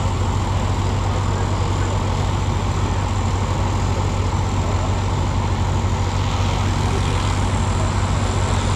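Vintage tractor engine running steadily at an even speed, a constant low drone with no change in pitch.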